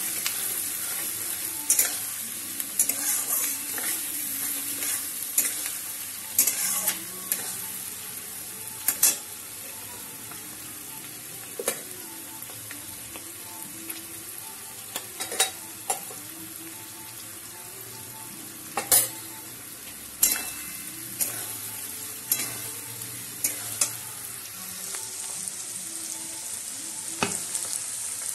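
Onions and capsicum sizzling in oil in a steel kadai, stirred with a long metal spoon that clinks and scrapes against the pan at irregular moments.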